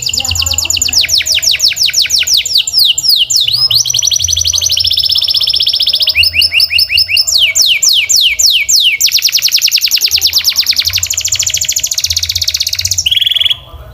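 Canary singing a long, loud song of fast high trills: each phrase repeats one short note many times in quick succession, then switches to a new trill every second or two. The song breaks off shortly before the end.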